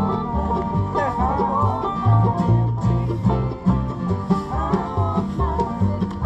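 Acoustic bluegrass band playing a tune, with banjo and guitar over steady alternating bass notes and a bending melody line on top.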